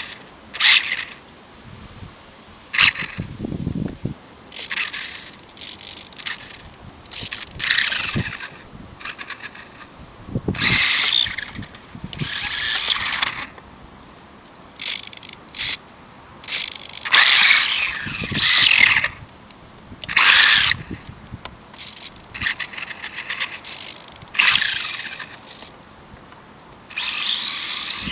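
Micro RC short course truck's 10,000 kV brushless motor whining in repeated short high-pitched bursts of throttle, about a dozen, with quiet gaps between as the truck is driven.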